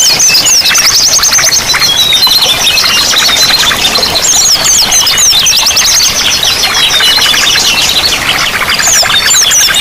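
Many small songbirds chirping and trilling at once in a dense, continuous chorus, with fast series of high, quick downward-sweeping notes.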